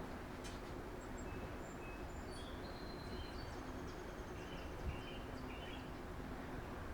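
Songbirds chirping in short, high, thin calls scattered through, over a steady low background rumble of outdoor noise, with one soft knock a little after the middle.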